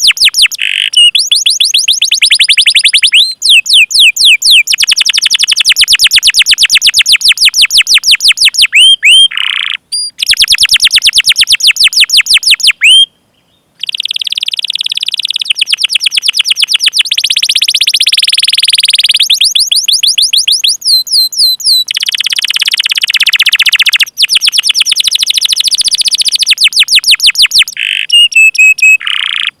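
Canary singing a long rolling song: fast trills of rapidly repeated high notes, run after run, with sweeping chirps between them and a brief stop about 13 seconds in.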